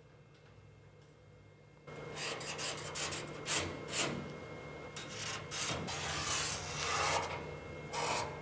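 Irregular scraping and rubbing strokes, starting about two seconds in after near quiet, with a few sharper louder strokes.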